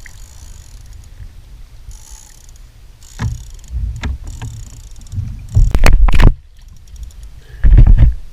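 Water slapping and splashing against a kayak hull, with low thumping rumbles on the microphone, in several bursts; the loudest comes a little after halfway. The kayak is being pulled through the water by a hooked tarpon.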